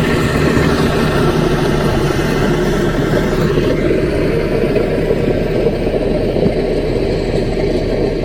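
Caterpillar mini bulldozer's diesel engine running steadily, its higher tones easing off about three and a half seconds in.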